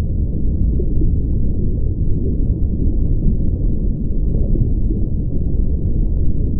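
A steady, muffled low rumble of noise with nothing sharp in it, a foley background recreated for the clip.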